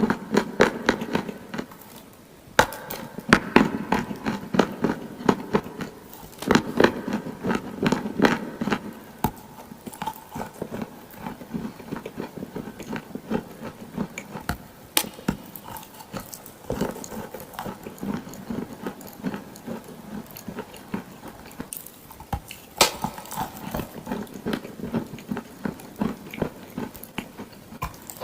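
Close-miked crunching of dry clay and wet clay paste: a dense run of sharp, crackly crunches. They are loudest in the first third, then go on as softer crackling, with another loud spell about two-thirds of the way through.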